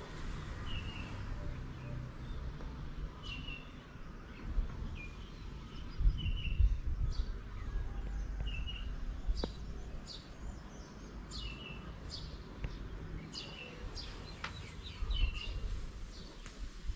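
Small birds chirping: short chirps repeated every second or so, with sharper, higher calls between them. A low rumbling noise swells about six seconds in and again near fifteen seconds.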